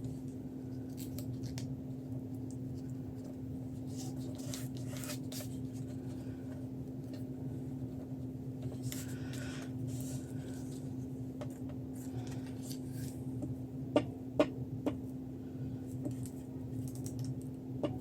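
Paper and craft tools being handled on a desk: soft rustling of paper now and then, with three sharp clicks in quick succession near the end, over a steady electrical hum.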